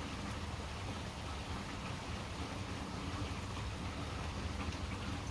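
Steady rain falling: a continuous even hiss over a low hum.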